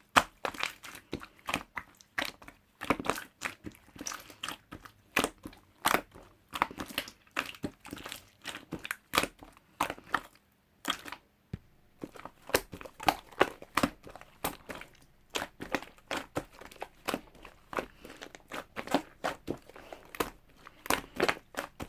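Mixed slime, clear slime with clay worked into it, being squeezed and pressed by hand, giving an irregular run of sharp sticky clicks and pops, with a short pause about halfway through.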